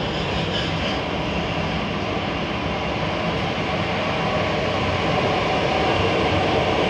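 Steady running noise of a moving train heard from inside the carriage: a low rumble under an even hiss, growing slightly louder about halfway through.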